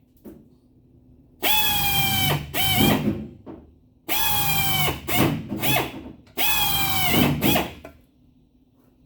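Handheld electric power tool, drill-like, run in three short bursts of about a second, each with a steady high whine that drops in pitch as the motor spins down, followed by one or two quick trigger blips.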